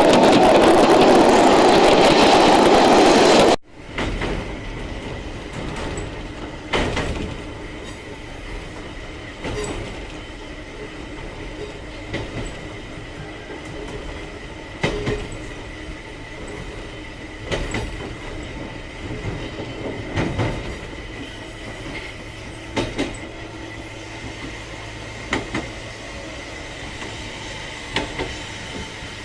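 A loud, dense rushing noise cuts off abruptly about three and a half seconds in. A narrow-gauge electric train of the Sangi Railway Hokusei Line is then heard running, with a steady rumble, a faint steady high tone, and wheel clicks and thumps every few seconds over rail joints.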